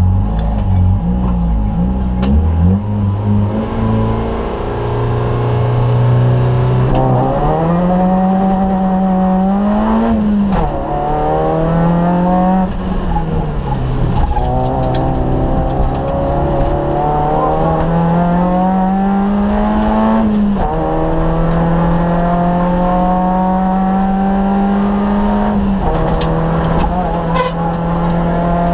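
Citroën Saxo VTS rally car's 1.6-litre four-cylinder engine at full throttle, heard from inside the stripped cabin. Its pitch climbs hard and then drops at each gear change or lift, several times over, with a few sharp knocks from the car.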